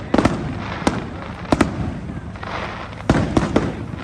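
Fireworks display: about eight sharp bangs from bursting aerial shells at uneven intervals, some in quick pairs, over a steady background of noise.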